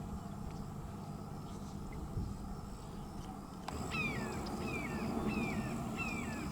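Low, steady outdoor background noise, then about halfway through a bird starts a series of short, downward-sliding cries, roughly two a second.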